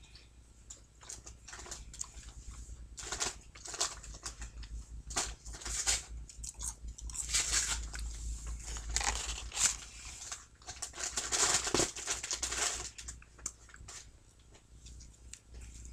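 A person chewing and biting food close to the microphone, McDonald's french fries and then a bite of a Filet-O-Fish sandwich near the end, in irregular crackly bursts.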